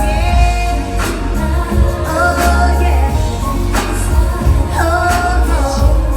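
Live R&B band music with a lead vocal singing over heavy bass and drums, the melody sliding between notes.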